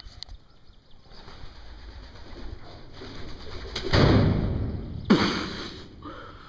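Pigeons' wings flapping as the birds take off in alarm: a rustling flurry that builds, then two loud, sudden flurries about four and five seconds in.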